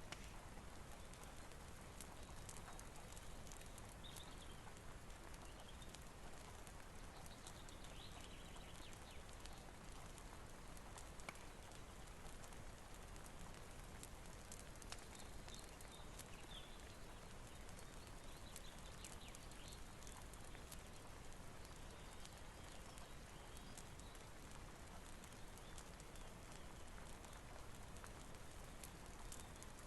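Faint, steady rain hiss with a scattering of small, sharp crackles from a fireplace throughout.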